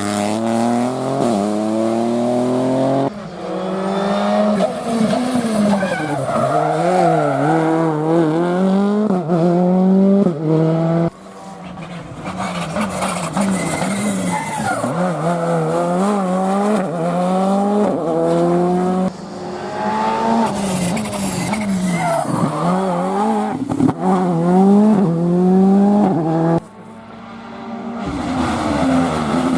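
Rally car engines revving hard and shifting up and down through the gears at full attack on a stage, in a string of short clips that cut abruptly from one car to the next.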